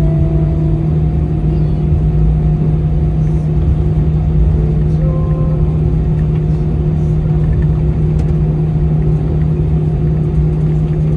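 Airbus A319 cabin noise in flight: a steady, loud drone of the jet engines and the airflow over the fuselage, with a constant low hum throughout.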